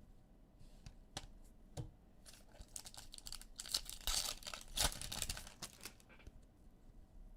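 Trading-card pack wrappers crinkling and tearing while cards are handled: a few sharp clicks, then a dense stretch of crackling in the middle that is loudest about four to five seconds in.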